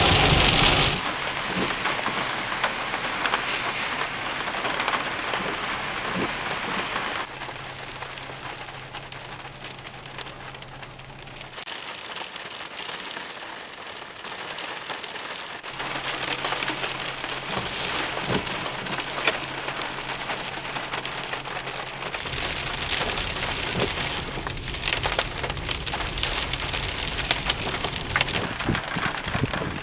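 Heavy rain falling steadily, with scattered sharper drop impacts. The rain grows quieter about seven seconds in and heavier again a little past halfway.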